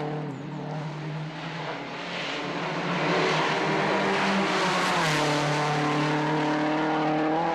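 A World Rally Car's turbocharged four-cylinder engine running hard at high revs. Its pitch drops at a gear change about five seconds in, then climbs again. A rush of tyre and road noise swells and fades in the middle.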